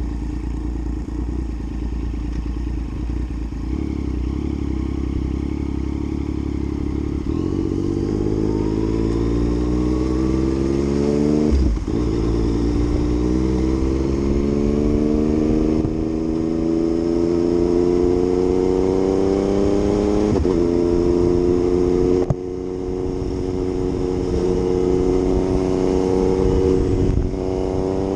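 Yamaha MT-09 inline three-cylinder engine accelerating hard through the gears: after a steady stretch, its pitch climbs in each gear and drops briefly at each of several upshifts.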